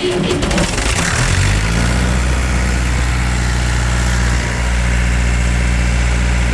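An engine on a water truck starts up, rising in pitch over the first second and a half, then settles into a steady idle.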